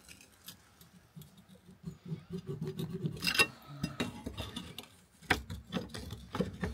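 Scattered light metallic clicks and knocks over a faint low rattle, from metal parts being handled during work on the car's suspension. A few sharper knocks come about three seconds in and near the end.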